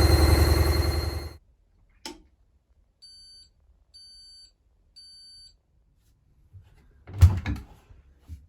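Hoover washing machine's final spin running down and stopping about a second in, then a click and three evenly spaced high beeps signalling the end of the wash cycle. A loud knock and clatter come near the end.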